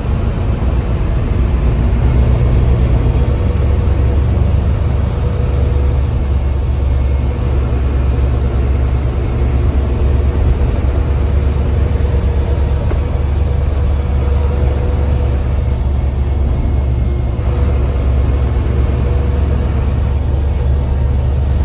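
Mercedes-Benz bus diesel engine pulling under steady load, heard from the driver's cabin: a strong low rumble with a high turbo whistle that comes and goes four times.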